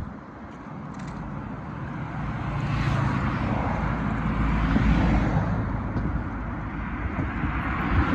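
Road vehicle noise: a steady low rumble with a rushing sound that swells about three seconds in, peaks around five seconds and eases off, like a vehicle going past.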